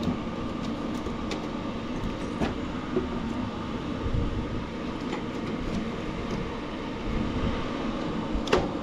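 Steady background hum with a few small clicks and knocks as parts and wiring on a riding mower are handled.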